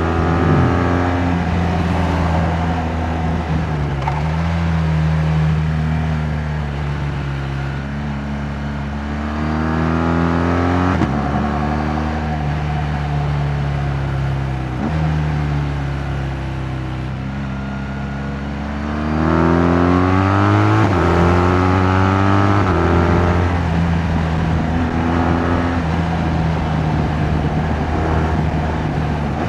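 2018 BMW R 1200 GS Adventure's liquid-cooled boxer twin engine running under way. Its note climbs twice as the bike accelerates, and the pitch drops sharply at each gear change.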